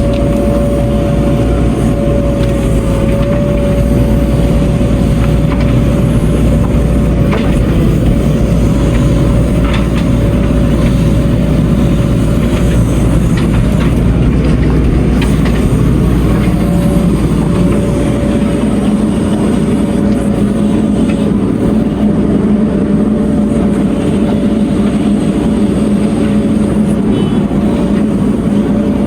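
Heavy diesel earthmoving machinery running steadily, its engine rumbling under a constant whine. A lower hum joins about two-thirds of the way through.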